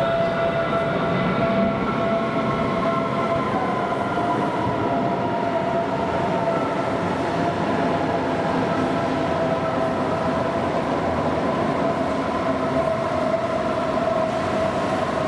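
DB Class 423 S-Bahn electric multiple unit pulling into an underground station platform: steady rolling and rumbling of wheels on rail, with a continuous whine of several steady tones from the traction equipment.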